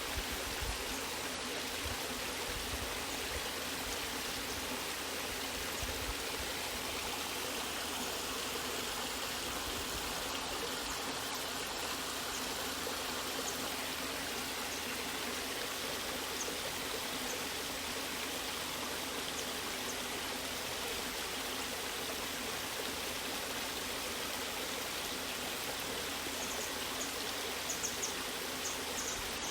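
Waterfall and stream water rushing and splashing in a steady, even wash of noise, with a few faint ticks near the end.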